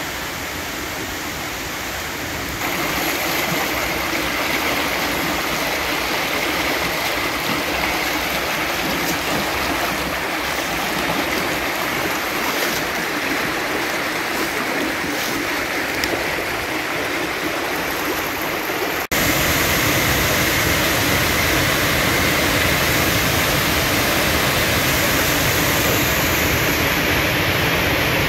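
Small waterfall, water rushing and splashing steadily. It gets louder about two and a half seconds in, and again after a split-second drop-out about two-thirds of the way through.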